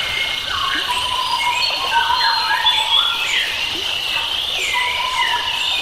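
A chorus of several wild birds singing at once, with overlapping whistled phrases and trills over a steady hiss of forest or stream background.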